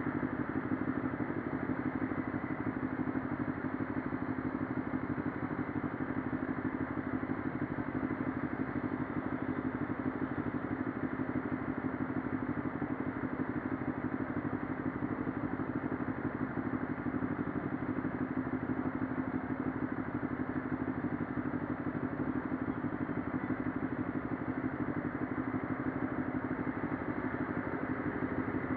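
CFMoto 400NK motorcycle's 400 cc parallel-twin engine idling with a steady, unchanging hum.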